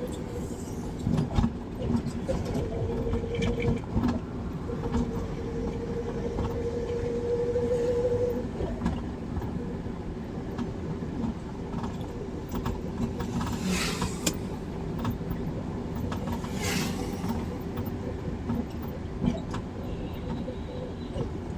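A car driving on a highway: steady road and engine rumble, with a few knocks in the first few seconds and two brief loud hissing sweeps about two-thirds of the way through.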